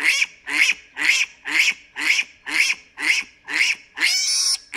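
Newborn piglet squealing over and over, short high-pitched squeals about two a second, with a longer squeal near the end.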